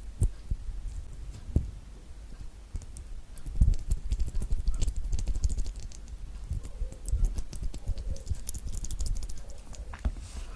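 Fingers peeling thick rind off pieces of a large orange, close to the microphone: a run of small clicks and crackles mixed with dull low knocks from handling, busiest from about three and a half seconds in.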